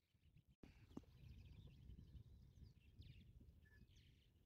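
Faint birdsong: small birds chirping and trilling in quick repeated notes, over a low rumble.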